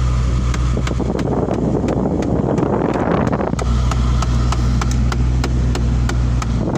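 Ford Mustang GT V8 engine running with the air conditioning switched on, a steady low hum with a regular clicking about three times a second over it. This is the strange noise the owner hears only when the air conditioning is on, which he thought was something caught in the system.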